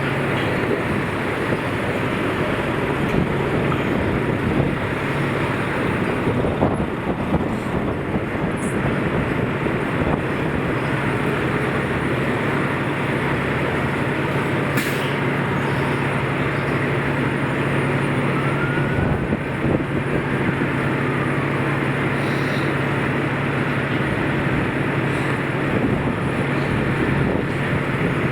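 Steady street traffic and vehicle engine noise with a continuous low hum, and a single sharp click about halfway through.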